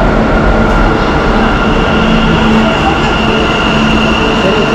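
Bangalore metro train running, a loud steady rumble with a high electric motor whine held on one pitch.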